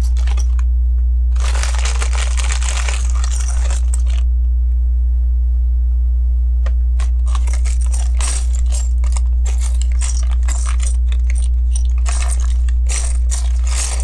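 Loose LEGO plastic pieces clicking and rattling as they are sifted through by hand, with a rustling stretch in the first few seconds, all over a steady loud electrical mains hum.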